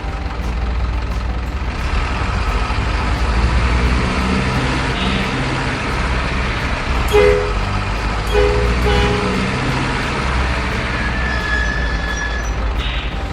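Truck engine sound running steadily, with short two-tone horn toots about seven seconds in and twice more around eight and a half to nine seconds.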